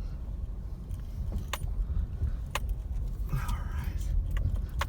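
Car crawling slowly over a steep, rocky dirt road, heard from inside the cabin: a low rumble with several sharp clicks and rattles as the car jolts.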